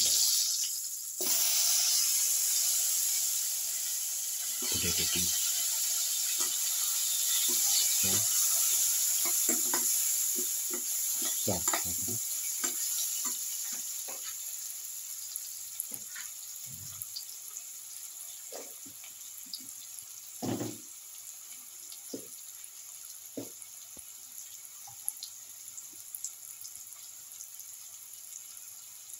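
Garlic, onions and potato pieces frying in hot oil in a pan: a loud sizzle jumps up about a second in and slowly dies down. A steel skimmer spoon scrapes and knocks against the pan as the mixture is stirred.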